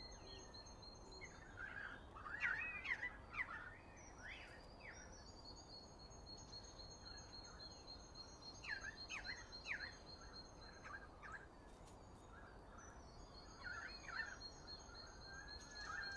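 Guinea pig squeaking softly in short clusters of quick rising and falling squeaks, about two seconds in, again around nine seconds and near the end, over a faint steady high-pitched trill.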